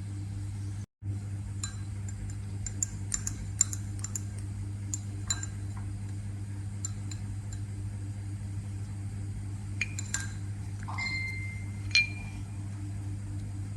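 Scattered light clinks and taps of a utensil against glass containers, a few of them ringing briefly, over a steady low hum.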